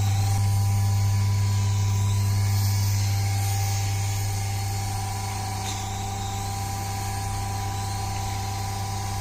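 Small electric motor of a battery-powered toy running steadily with a low hum and a thin whine. It drops slightly in level about four to five seconds in, then holds steady.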